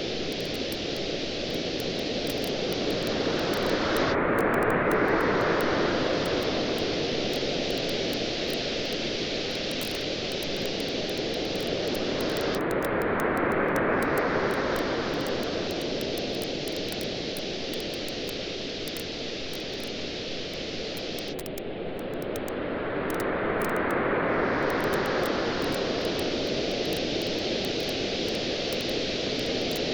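Waves washing on a beach, the surf swelling and easing three times, with a faint campfire crackle of sparse small pops throughout.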